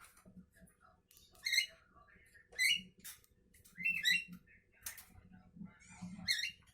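Javan myna calling: five short, loud calls spaced about a second apart, with fainter clicks between them.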